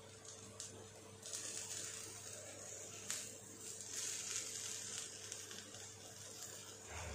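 Grated potato rösti frying in butter in a flat pan, a soft sizzle that grows louder about a second in, with a couple of faint clicks.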